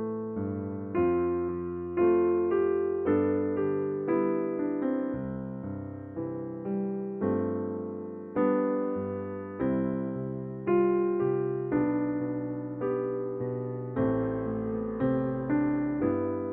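Slow, gentle solo electric piano music: chords struck about once a second, each left to fade.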